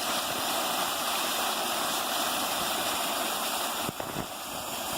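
Steady rushing of falling water at Hickory Nut Falls, with a brief dip and a light knock or two a little before four seconds in.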